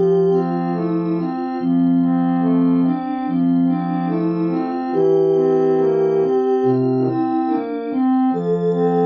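Electronic organ playing a slow piece: held notes that keep their level, a melody over chords and a bass line that changes every second or so.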